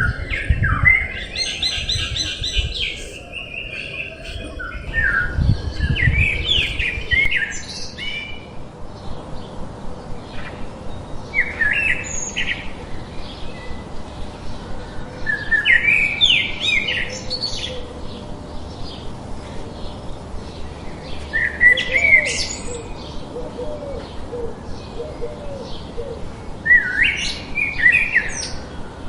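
A songbird singing short, quick phrases of sweeping notes, one about every five seconds, with fainter rapid calls repeating steadily between them. A low rumble sits under the busier calling in the first several seconds.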